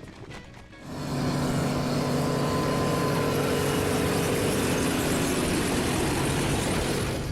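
Motor vehicle engine running at a steady pitch under a wide hiss, starting abruptly about a second in and cutting off sharply at the end.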